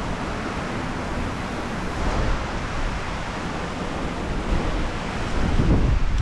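Strong gusting wind rushing and buffeting the microphone, with a heavier gust swelling near the end.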